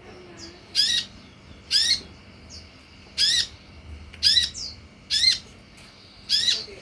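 Sunbird (kolibri) calling: a sharp, high, rapidly warbling call note repeated about once a second, six times, with fainter short chirps in between, the kind of lure call that sets captive sunbirds answering.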